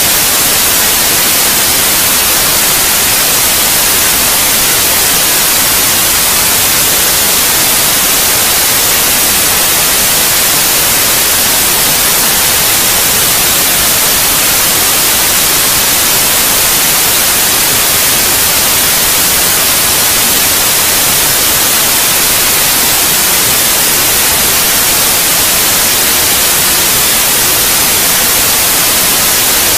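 Steady, unchanging white noise: a loud, even hiss strongest in the high range, played as a sleep aid for babies.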